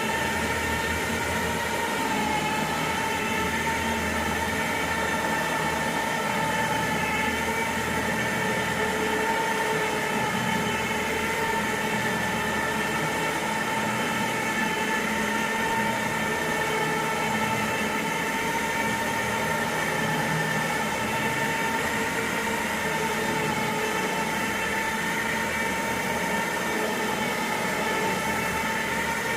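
Carpet-cleaning extraction machine running steadily, a constant whine over a rushing hiss of suction.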